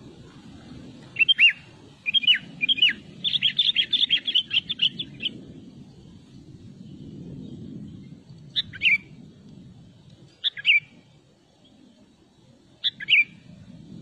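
A bulbul calling: short bubbly phrases, then a quick chattering run of notes about three to five seconds in, then three short two-note calls a couple of seconds apart. A soft low rumble of wind runs underneath.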